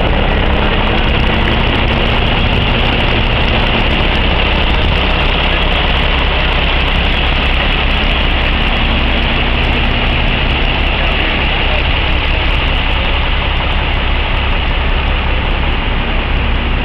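A large vehicle's engine idling steadily, with a faint hum that comes and goes twice.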